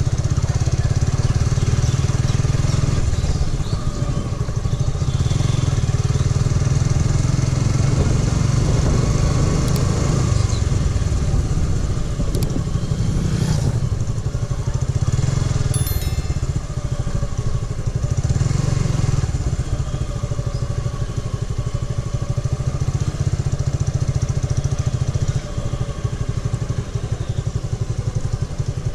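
Suzuki Gixxer SF motorcycle engine running while being ridden, under a steady low rumble of wind on the microphone.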